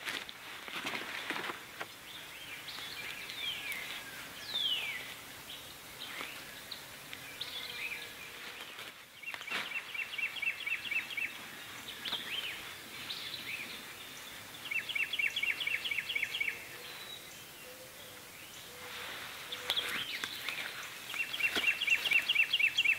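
Wild songbirds singing in woodland: three rapid trills of quickly repeated notes, each lasting a second or two, with several down-slurred whistles between them. A few soft knocks and rustles come from the tarp being handled.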